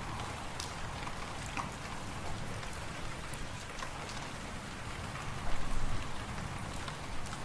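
Fireplace fire crackling, with scattered sharp pops and ticks over a steady hiss, and a low wind rumble beneath that swells briefly louder about five and a half seconds in.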